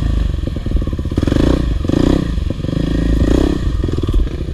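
Single-cylinder four-stroke dirt bike engine at low revs, given short throttle blips again and again while picking through a tight, technical trail, with some clattering of the bike over the rough ground.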